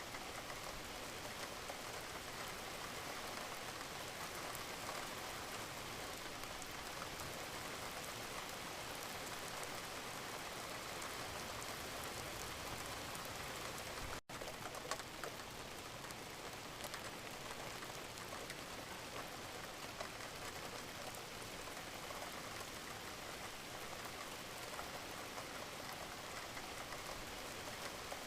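Steady, gentle rain: an even hiss of falling rain with scattered individual drops. The sound cuts out for a split second about halfway through, then carries on unchanged.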